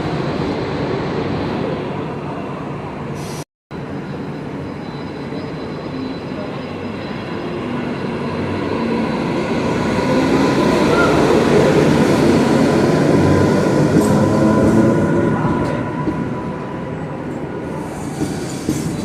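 Mumbai AC local electric suburban train pulling out of a station: rumbling running noise that builds as it gathers speed, loudest about two-thirds of the way through, with pitched tones shifting over it. The sound cuts out completely for a moment a few seconds in.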